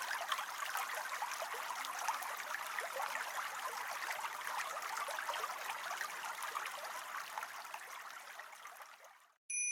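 A steady, crackling, trickling noise like running water, fading out near the end. A bright bell chime starts at the very end.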